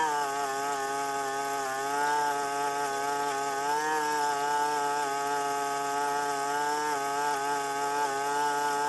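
Little Wonder leaf vacuum's gasoline engine running steadily, its pitch dipping and rising slightly as it works.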